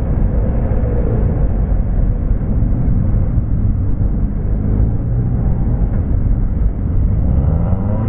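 Steady low rumble of a moving motorcycle, engine mixed with wind noise on the microphone, with a faint rising engine note near the end.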